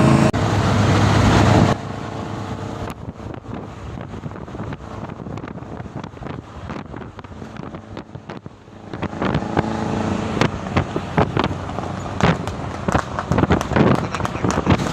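Daihatsu Zebra Espass van running with a rapid crackling 'tak-tak' popping, many sharp pops a second, growing louder from about halfway in. At the start a loud steady engine drone stops short after a second or two.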